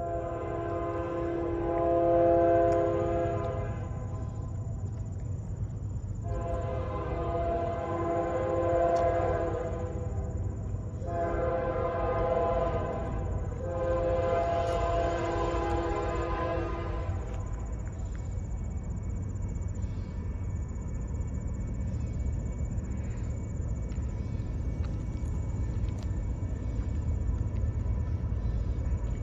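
Diesel locomotive's multi-chime air horn sounding four blasts, long, long, short, long: the standard signal for a grade crossing. After the last blast a steady low rumble of the train's engines and wheels runs on.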